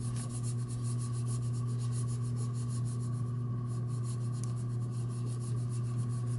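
A bar of wax rubbed quickly back and forth along an EVA foam fishing-rod grip: fast, even scrubbing strokes that fade in the second half. A steady low hum, louder than the rubbing, switches on just before and runs underneath.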